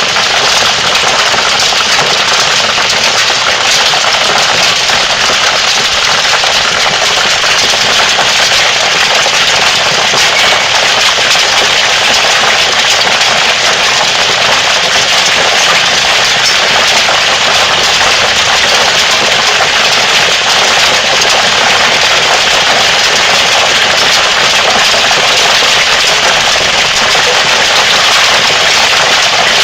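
Hail coming down hard: a loud, unbroken clatter of countless hailstones striking surfaces, steady throughout.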